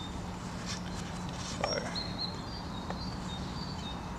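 Outdoor ambience with small birds chirping in the background, short high calls repeating throughout, over a steady low hum. A few faint knocks of wood are heard.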